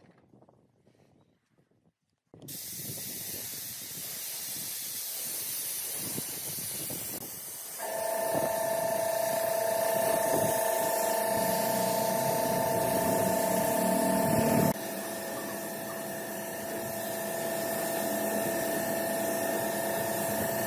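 Steady hissing that starts suddenly about two seconds in, joined about eight seconds in by a steady machine whine of a few tones; the whine changes abruptly near the end.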